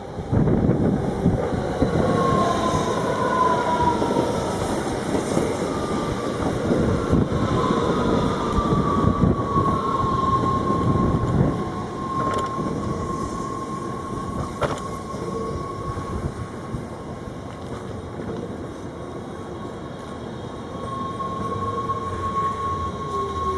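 Passenger train running on the rails at a station, loud for the first dozen seconds and then quieter, with a high steady squeal and a lower whine that falls in pitch near the end.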